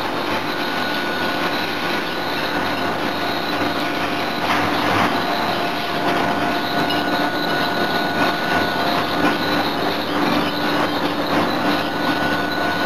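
Steady drone of heavy industrial machinery with several high whining tones held throughout, typical of a running CNC hydraulic forging hammer installation. A few light knocks come about four to five seconds in.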